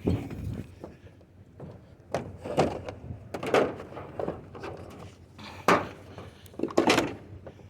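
Irregular clunks and knocks of scrap items being shifted and stacked in a load, about seven separate hits.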